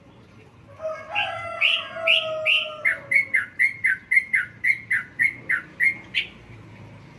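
Yellow-vented bulbul (trucukan) singing: a few low warbled notes, then a quick run of about fifteen repeated falling whistled notes, about three a second, that stops abruptly near the end.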